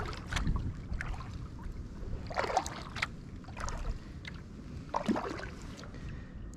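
Kayak paddle strokes: the blade splashes into the water about every two and a half seconds, with small drips between strokes, over a low rumble.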